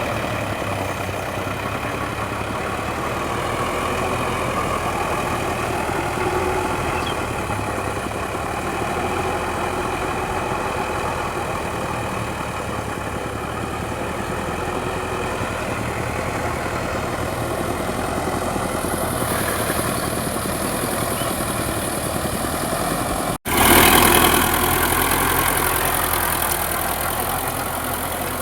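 Sonalika DI 750 tractor's diesel engine running steadily. About 23 seconds in the sound cuts out for an instant and comes back louder and hissier.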